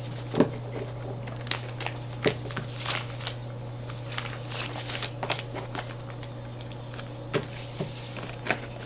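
Cardboard box and packaging being handled: scattered rustles and a few sharp knocks and clicks, over a steady low hum.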